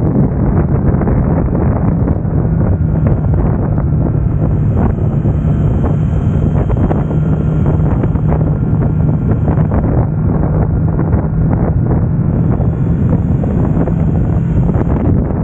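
Triumph Tiger Sport 660's three-cylinder engine running at a steady pitch while riding, under heavy wind noise on the microphone.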